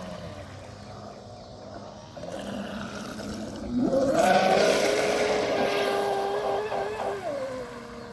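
Electric motor of a radio-controlled boat whining: faint at first, then about four seconds in it speeds up to a steady high pitch with a rushing hiss for about three seconds before easing off.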